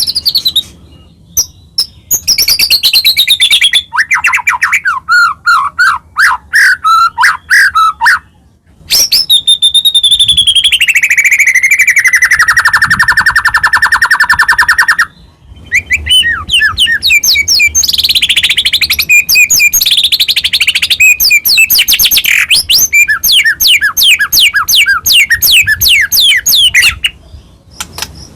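White-rumped shama (murai batu) singing loudly and vigorously: a run of varied phrases of quick repeated notes, whistles and trills with short breaks between them. In the middle comes a long trill of about six seconds that slides down in pitch.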